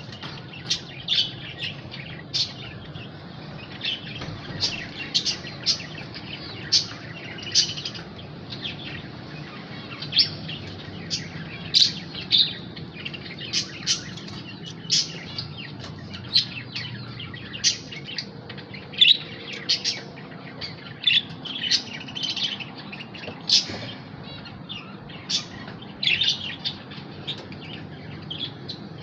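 Lovebirds chirping: short, shrill calls repeated irregularly, one to three a second, over a steady low background hum.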